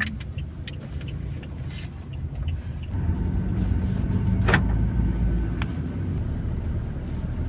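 Steady rumble of a moving road vehicle, its engine and road noise growing louder about three seconds in, with one short tap partway through.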